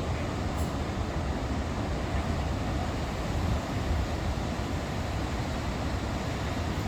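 Sea waves washing under a strong wind, a steady rush of noise with a heavy low rumble of wind buffeting the microphone.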